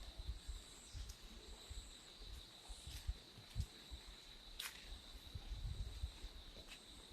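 Steady high-pitched trill of insects such as crickets, with a few sharp taps and irregular low thumps of footsteps underneath.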